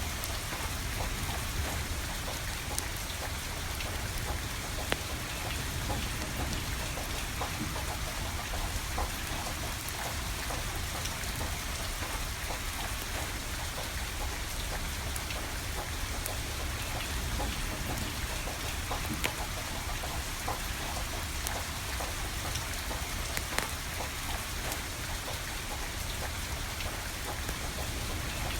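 Steady rain falling, with scattered sharp crackles and pops from a burning wood fire.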